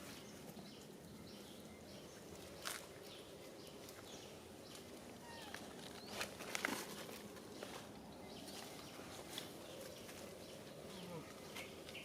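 Quiet outdoor ambience with scattered clicks and knocks, busiest about six to seven seconds in, and a few short, faint animal chirps.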